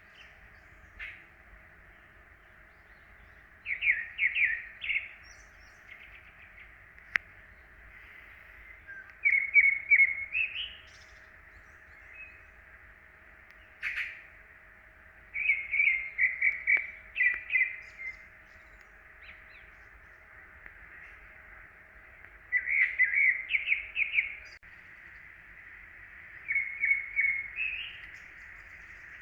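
A bird singing in the woods: short phrases of several quick notes, repeated about every five or six seconds, over a faint steady background hiss.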